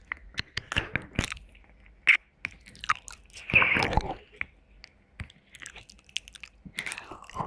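Wet mouth sounds very close to the microphone: tongue clicks, lip smacks and licking. The sounds come as many short, separate clicks, with a longer wet smacking stretch about three and a half seconds in.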